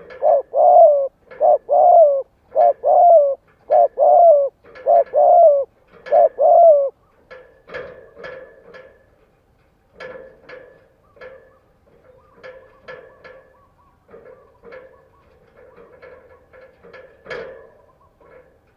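Spotted dove cooing: a run of loud, repeated coo phrases for about seven seconds, then softer cooing continuing to the end.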